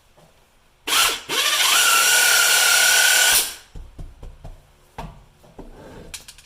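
A power tool starts up and climbs to a steady high whine for about two and a half seconds, then winds down. A few light knocks and handling sounds follow.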